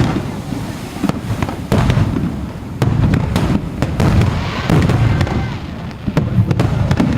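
Aerial fireworks shells bursting in rapid succession: many sharp cracks and deep booms, with crackling in between.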